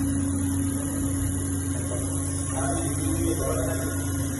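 Steady electrical machine hum, with a constant low tone and a higher steady tone above it.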